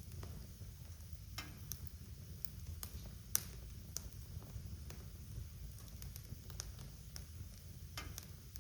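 Wood fire crackling in a fireplace: irregular sharp pops and snaps over a low steady rumble, with one louder pop about three seconds in.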